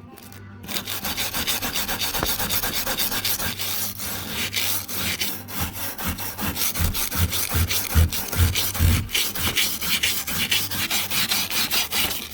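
Corroded aluminum frame being scrubbed by hand with rapid back-and-forth strokes, several a second, to strip the corrosion back for paint. The strokes start about a second in, and a few heavier ones land around the middle.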